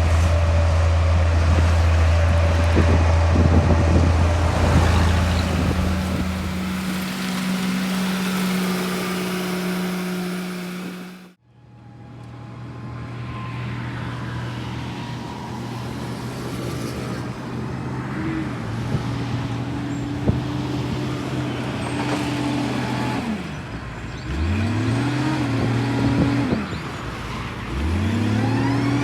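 Diesel engine of a heavy earthmoving machine running under load, its pitch shifting with the throttle. The sound cuts out abruptly about eleven seconds in and resumes, then the engine revs up twice near the end, each time rising in pitch and settling back.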